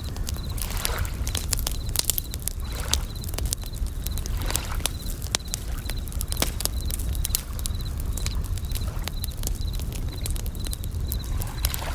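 Campfire crackling with many sharp pops, over bell crickets' short, high, ringing trills repeating throughout, with waves washing in every few seconds over a low rumble.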